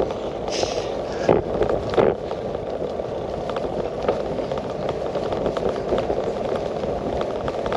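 Bicycle ride heard from a handlebar-mounted GoPro: steady tyre and wind noise with a constant patter of small clicks and rattles, and two sharper knocks between one and two seconds in.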